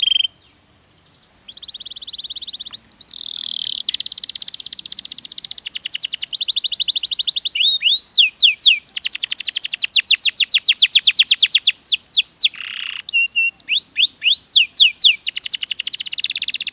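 Domestic canary singing long, fast trills of rapidly repeated sweeping notes, the rate and pitch changing from one trill to the next, with a short pause about a second in.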